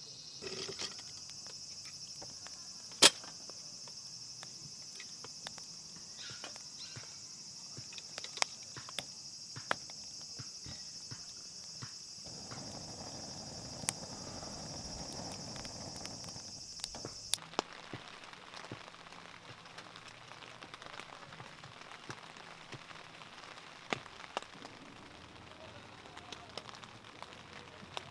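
Wood campfire crackling: scattered sharp pops, the loudest about three seconds in, over a steady high hiss. About seventeen seconds in, the background changes abruptly to a broader, even hiss with fainter pops.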